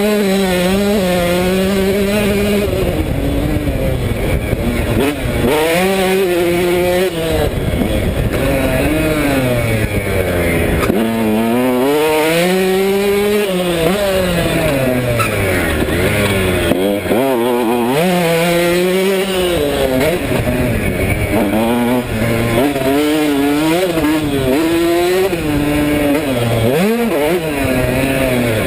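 KTM 150SX two-stroke single-cylinder dirt bike engine being ridden hard, its pitch repeatedly climbing as the throttle opens and dropping as it shuts off, every couple of seconds.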